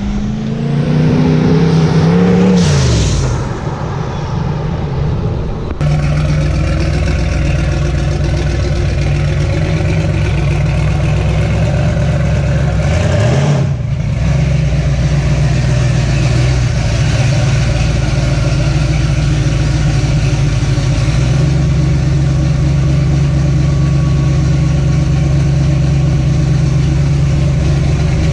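Twin-turbo V8 engine of a Ford Cortina drag car running hard. Its pitch climbs under acceleration, then drops about 3 s in. From about 6 s in it runs steadily, with a brief rise and fall in pitch around 13 s in.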